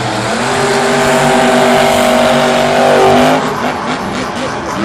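Monster truck supercharged V8 engines at full throttle during a racing pass; the engine pitch climbs slightly, holds high, then drops off about three and a half seconds in as the throttle comes off.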